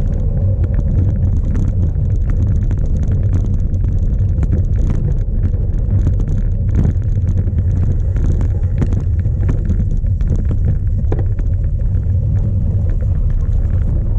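Strong wind buffeting an onboard camera microphone on a cyclocross bike during a race, a steady heavy rumble, with frequent small knocks and rattles from the bike riding over rough ground.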